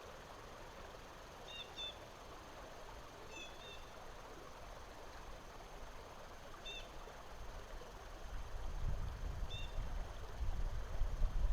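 A bird calling in short, high double chirps, four times a few seconds apart, over a faint steady hiss. A low rumble comes in near the end.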